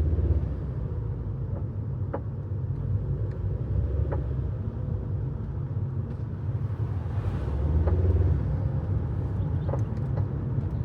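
Volvo car running with a steady low rumble, and a few light clicks at uneven intervals, about every two seconds. This is the unexplained clicking noise the owner is asking about.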